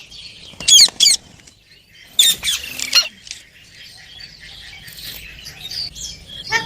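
Pet Indian ringneck parakeets calling: two sharp screeches about a second in and a quick burst of calls just after two seconds, then soft, steady chattering.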